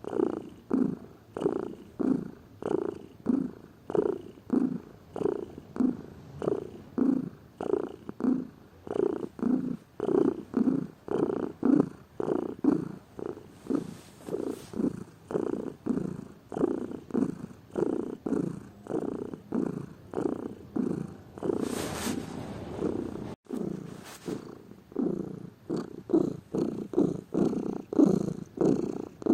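Domestic cat purring close up, in an even rhythm of about two pulses a second as it breathes in and out. A short burst of hissy noise comes a little over two-thirds of the way through.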